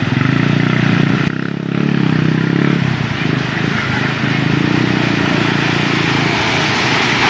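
An engine running steadily, with a rushing hiss over it.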